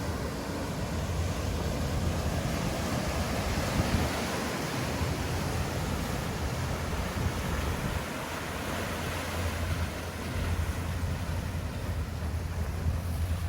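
Ocean surf washing against sea cliffs, a steady rushing that swells and eases, with wind rumbling on the microphone.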